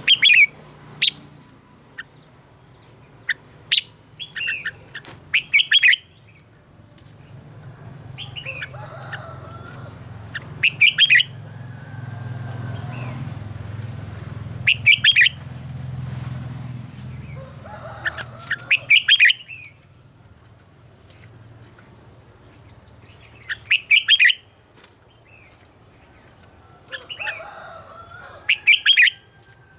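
Red-whiskered bulbul singing: short, loud phrases of a few quick warbled notes, repeated every few seconds.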